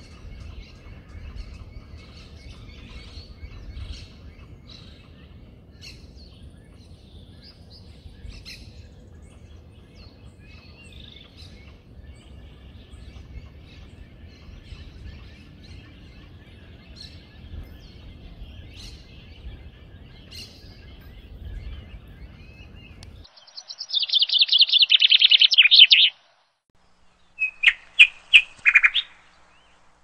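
Many small birds chirping over a low steady outdoor rumble. About 23 seconds in the rumble cuts off abruptly, and a loud, rapid chattering bird call follows for about two seconds, then a few more loud calls near the end.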